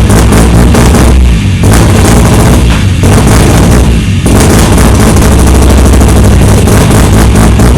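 Knight Sports RX-8 race car's rotary engine revved hard and held high while warming up, loud enough to overload the recording. The throttle eases off briefly about one and a half, three and four seconds in.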